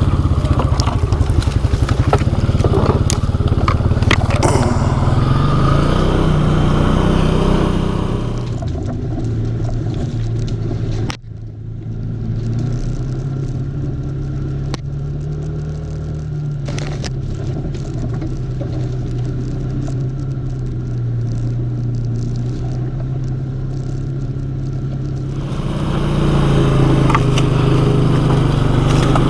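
ATV engine running steadily while riding a rough, overgrown trail, with knocks and the scrape and clatter of brush against the machine. For much of the middle the sound turns duller and quieter, with a brief dropout, before the fuller engine sound returns near the end.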